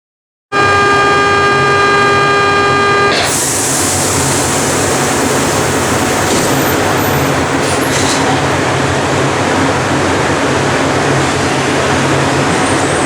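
CPTM Série 1700 electric train's door-closing warning tone, one steady pitched tone held for about three seconds, then the train's traction running as it pulls away: a continuous rushing noise over a low steady hum.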